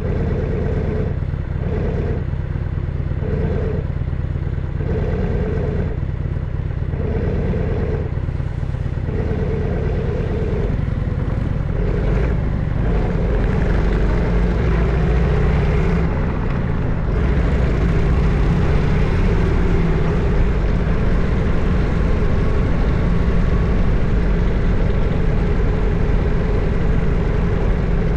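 Harley-Davidson FXSTS Springer Softail's 1340 cc Evolution V-twin running at low speed. For the first third a tone pulses on and off about once a second over the engine. The engine then grows fuller and louder as the bike pulls away, getting louder again a little past halfway.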